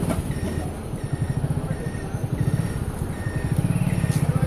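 Motorcycle engine idling with a rapid, even pulse, growing louder about three and a half seconds in.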